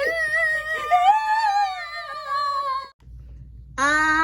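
A child's voice wailing in long drawn-out notes, pretend crying with happy tears: a wavering wail that falls in pitch, then after a short break a steady held note near the end.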